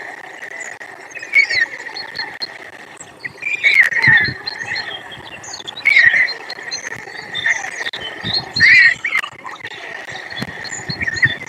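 Small birds chirping in short bursts, about five times, over an outdoor background with a steady high faint tone.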